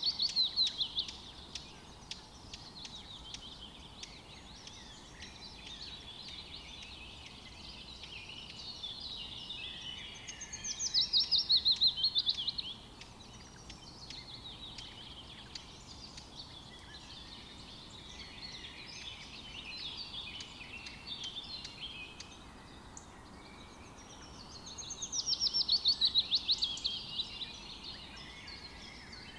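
Forest songbirds singing, with softer chirps throughout. Three times, about every 13 seconds, one bird sings a loud phrase of about two seconds: a run of rapid notes falling in pitch.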